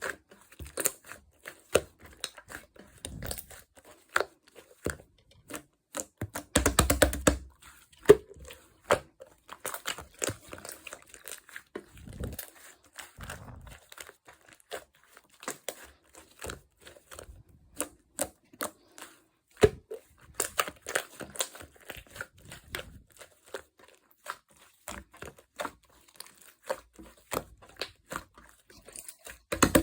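Clear slime being squished and stretched by hand, giving a dense run of sharp clicks and crackling pops, with a louder, fuller squelch about seven seconds in and again at the end.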